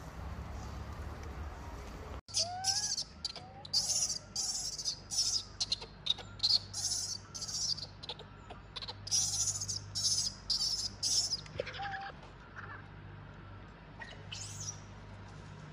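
Birds chirping in short, repeated, irregular calls, starting about two seconds in, with a few lower sliding calls among them, over a low steady hum.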